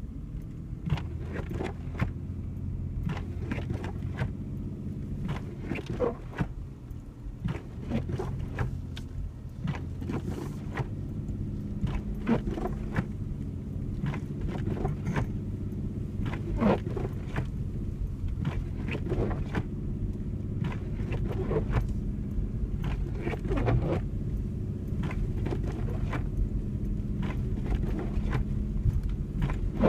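Vehicle driving, heard from inside: a steady low engine and road hum with frequent irregular clicks and knocks scattered through it.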